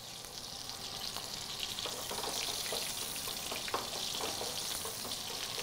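Breaded chicken cutlets shallow-frying in hot oil: a steady sizzle with scattered crackling pops, growing a little louder over the first two seconds.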